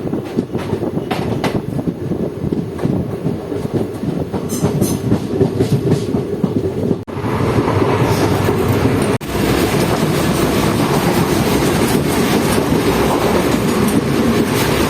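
Passenger train running at speed, heard on board: steady rumble with the wheels clattering over rail joints. Two brief cut-outs partway through, after which the rushing noise is steadier and brighter.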